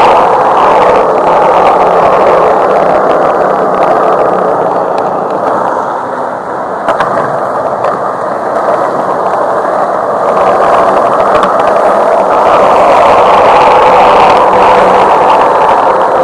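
Skateboard wheels rolling steadily over pavement, a continuous loud rolling noise, with a few light clacks about seven seconds in.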